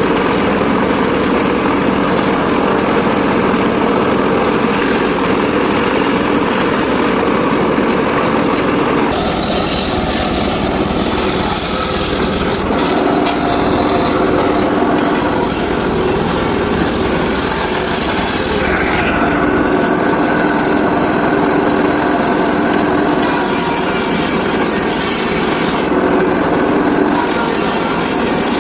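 Homemade circular saw running steadily while sawing sengon laut timber. The whine of the cut rises and falls several times as the blade works through the wood.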